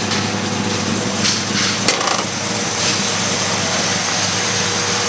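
A big-block V8 muscle car engine idling steadily, with a sharp click about two seconds in.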